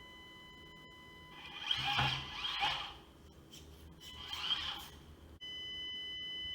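Stock Axial SCX24 ESC and brushed motor giving a steady high-pitched whine at low throttle, the ESC noise typical of the stock electronics. Twice, at about 1.5 s and about 4 s, the truck jerks into motion with a short burst of motor and gear noise. The whine gets louder near the end.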